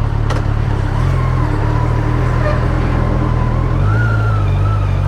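Kawasaki motorcycle engine running steadily at low revs.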